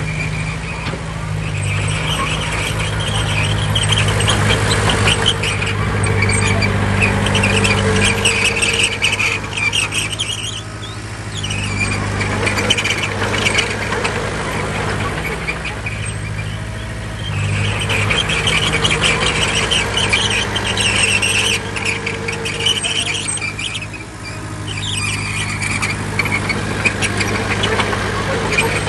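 Bulldozer's diesel engine running steadily under load, with long stretches of high metallic squealing from its crawler tracks as it moves, easing off twice in between.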